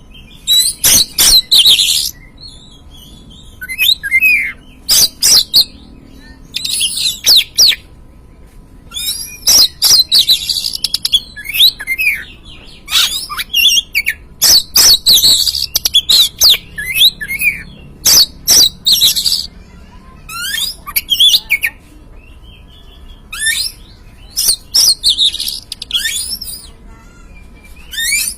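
Oriental magpie-robin singing: bursts of quick high whistles and sharp chattering notes, phrases a second or two long with short pauses between them.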